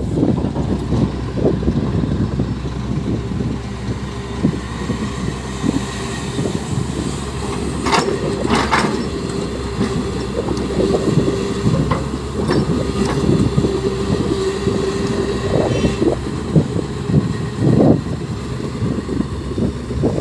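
Heavy diesel excavator running under load while loading a dump truck: engine and hydraulics working, with a steady held whine through the middle stretch, scattered knocks and clanks, and a brief clatter about eight seconds in.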